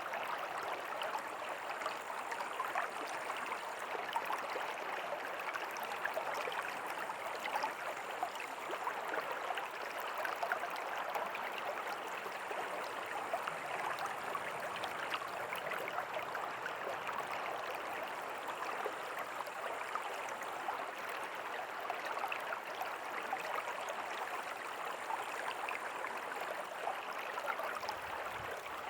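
River water flowing steadily: a continuous rushing and babbling, flecked with many small splashes.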